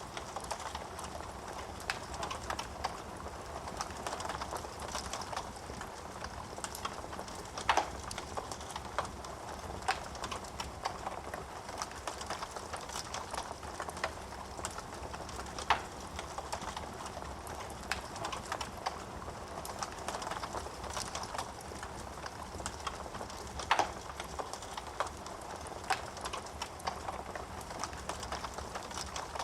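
Wood fire burning in a fireplace: a steady hiss of flames with irregular crackling of the burning wood and a few louder pops, about eight seconds apart.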